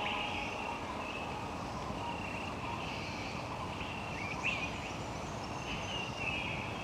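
Tropical rainforest ambience: a steady background hiss with short, high bird calls repeated every second or so, and a few quick sweeping notes about halfway through.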